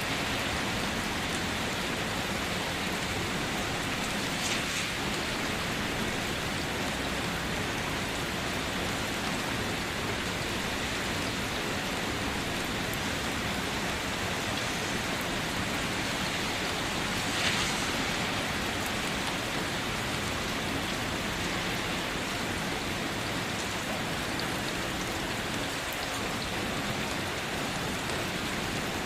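Steady rainfall pattering on surfaces, an even hiss with the occasional louder individual drop, the most prominent one a little over halfway through.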